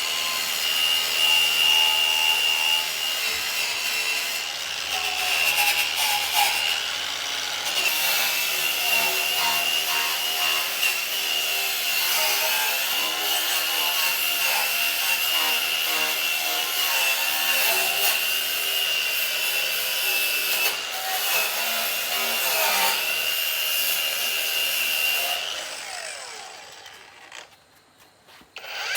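A power tool running under load, grinding or cutting with a steady high whine, then winding down and stopping near the end.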